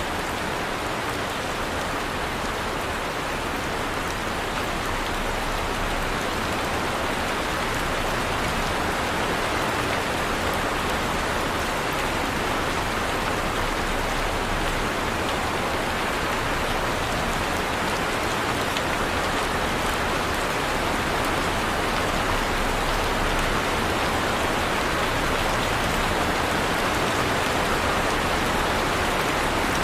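Heavy rain falling steadily, a dense even hiss of many drops on a surface.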